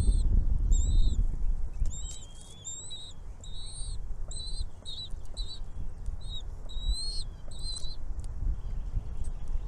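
Small bird chirping: a rapid series of short high chirps, each bending up and down in pitch, which stop about eight seconds in. Under the chirps there is a low rumble, loudest at the start.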